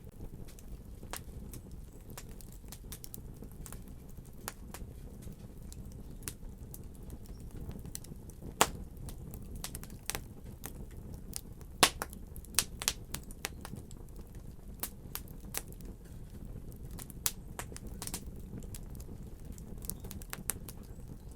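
Wood fire burning in a fireplace: irregular crackles and sharp pops over a low, steady rumble of the flames, with two louder pops about a third and halfway through.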